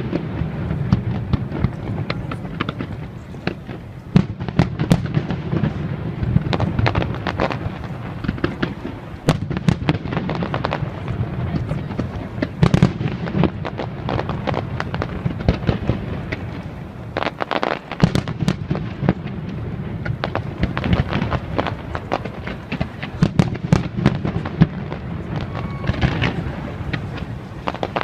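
Fireworks display: a dense, unbroken barrage of bangs and crackles over a continuous low rumble, easing briefly about two thirds of the way through.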